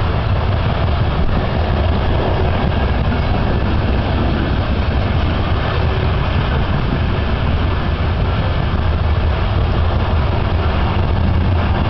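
Freight train of covered hopper cars rolling past at speed: a steady low rumble of wheels on rail.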